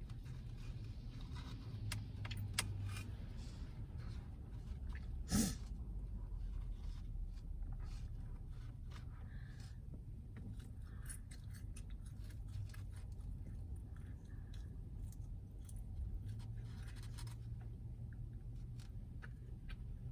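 Someone eating in a car: chewing, with small clicks and scrapes of handling food and packaging, over a low steady hum. One sharper knock comes about five seconds in.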